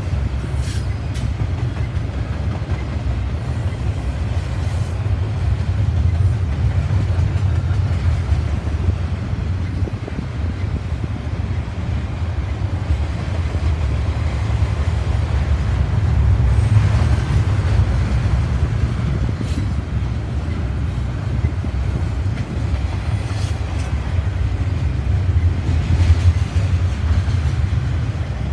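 Double-stack intermodal container cars rolling past on the rails, a steady low rumble of steel wheels on track with a few faint clicks.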